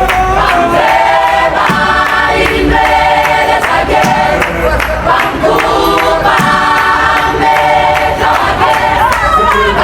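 Music with a choir of many voices singing over a steady low bass.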